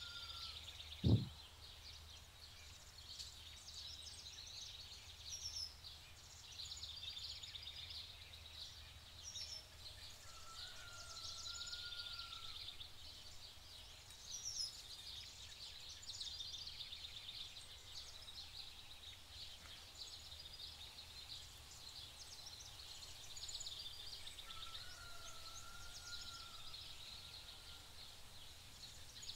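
Faint chirping and twittering of small birds, with a longer wavering whistled call about ten seconds in and again about twenty-five seconds in.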